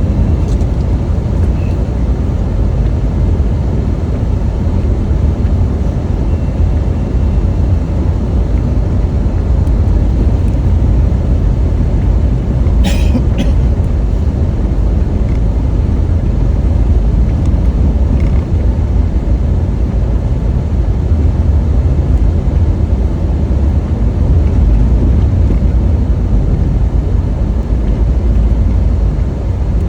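Steady low road rumble of a moving car, with a single brief click about halfway through.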